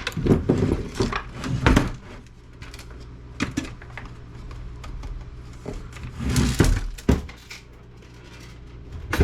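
Desktop computer case and parts being handled during disassembly: knocking and clattering in two spells, one during the first two seconds and another around six to seven seconds in, over a steady low hum.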